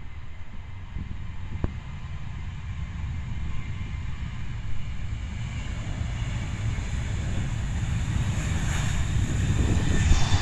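Jet airliner engines with a low rumble and a faint high whine, growing steadily louder as the plane approaches.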